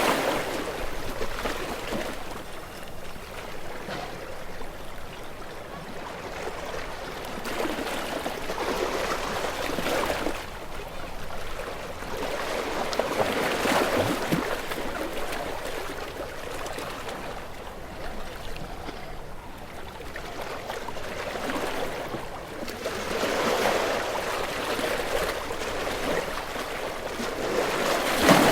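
Ocean waves breaking and washing in, the surf noise swelling and fading every few seconds, with the loudest break near the end.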